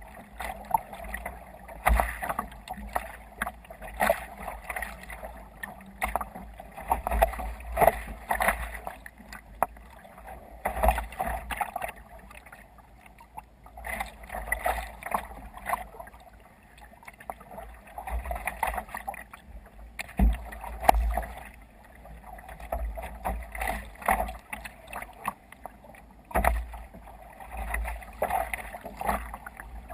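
Sea water slapping and sloshing against a sea kayak's hull as it sails through waves, in uneven surges every second or two with low thumps.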